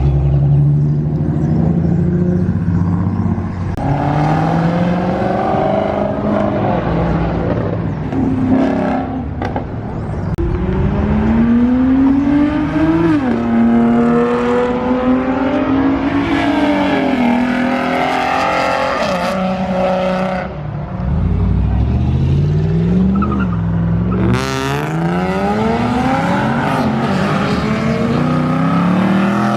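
Several cars' engines revving hard and accelerating past one after another, their pitch climbing in repeated sweeps, falling at each shift and climbing again.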